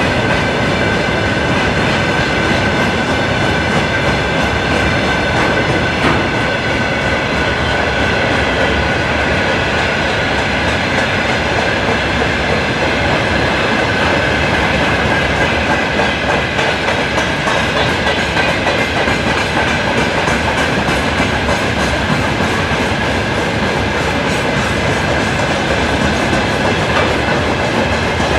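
2M62 diesel locomotive's two-stroke V12 diesel engines running, with a steady high whine that sags slightly in pitch partway through and rises again near the end.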